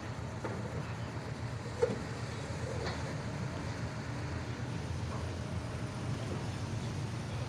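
Vehicle engine idling through its un-remapped exhaust with a steady low rumble. A brief sharp click sounds a little under two seconds in.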